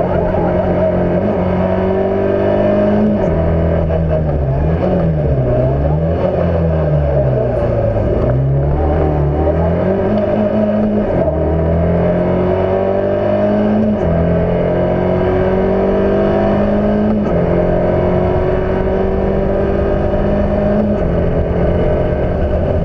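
Fiat Cinquecento rally car engine heard from on board, driven hard around a circuit. The engine note climbs and falls back repeatedly with gear changes and lifts off the throttle, with a run of quick dips and pick-ups in the middle.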